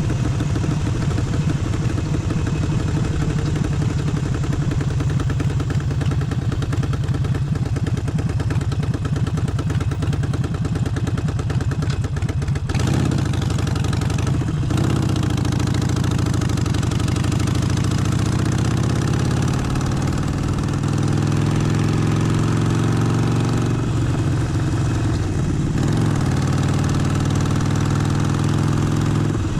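Harley-Davidson Forty-Eight's air-cooled 1200 cc V-twin running with a steady low rumble for the first part. It is interrupted by two short breaks as gears change, then rises steadily in pitch as the bike accelerates, with another shift near the end.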